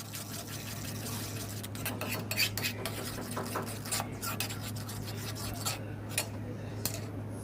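A utensil scraping and clicking against a pan while stirring a thick chocolate sauce, with irregular short scrapes and taps throughout, over a steady low hum.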